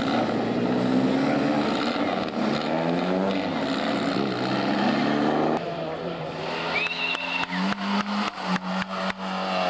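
Renault 5 slalom cars' engines revving and idling in the start queue, the pitch rising and falling. After an abrupt cut, a car running on the course with a steadier engine note, a brief high squeal about seven seconds in and a run of sharp clicks.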